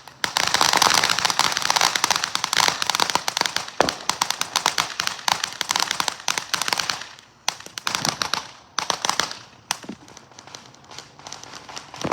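Firecrackers going off in a dense, rapid run of pops for about seven seconds. The pops then thin out to a few shorter, scattered runs.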